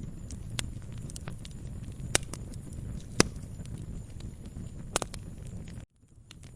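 Wood fire crackling in a fireplace: a steady low rumble of flames with many small crackles and three sharper pops about two, three and five seconds in. Near the end the sound cuts out for a moment and fades back in.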